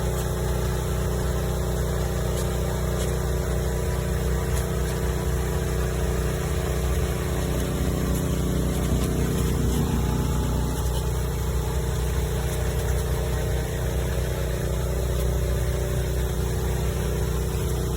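Pressure washer's small engine running steadily at constant speed.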